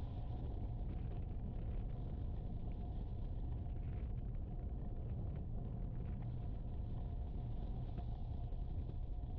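Strong wind buffeting the microphone, giving a steady low rumble.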